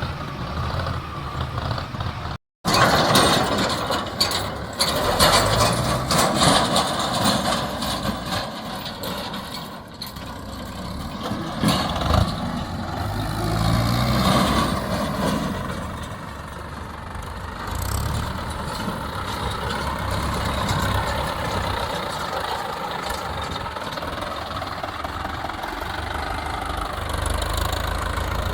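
Mahindra Novo Arjun 605 tractor's diesel engine running, its speed rising and falling, with mechanical clatter over it. The sound cuts out completely for a moment about two and a half seconds in.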